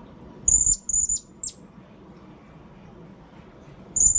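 Blue-crowned hanging parrot (serindit) calling: shrill, very high-pitched short notes. There is a group of three about half a second in and another call near the end, as used in a lure recording to call in wild birds.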